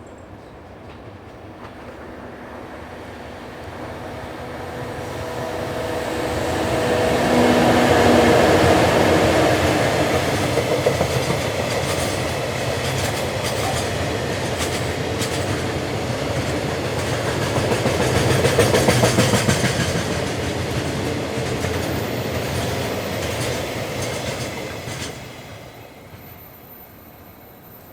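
A freight train of oil tank wagons, hauled by two JR Freight EF64 electric locomotives running double-headed, passes close by. The sound builds to its loudest about eight seconds in with a steady hum, then the wagons' wheels keep up a clickety-clack over the rail joints until the tail of the train passes about 25 seconds in and the sound falls away.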